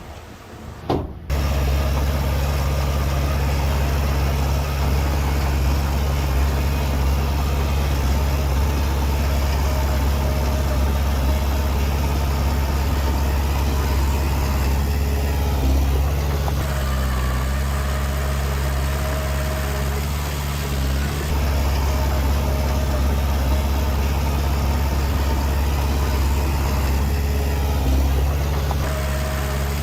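Diesel engine of heavy earth-moving machinery running steadily with a low, even drone, cutting in abruptly about a second in.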